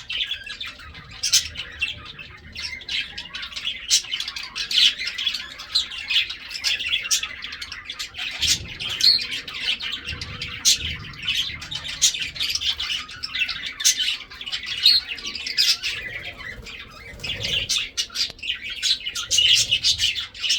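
Lovebirds chirping without pause: a dense run of high-pitched calls with many sharp, short notes.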